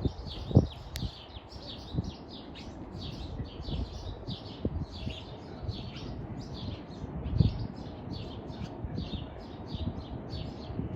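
Small birds chirping over and over, about two to three short high chirps a second, with a few low thumps underneath.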